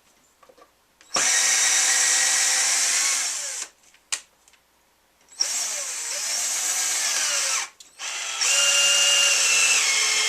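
Electric drill running in three bursts of a couple of seconds each, its whine dropping in pitch under load as it drives a screw into wood.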